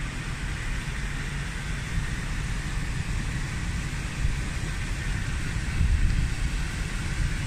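Wind buffeting a phone microphone outdoors: a low, unsteady rumble over a steady rushing hiss.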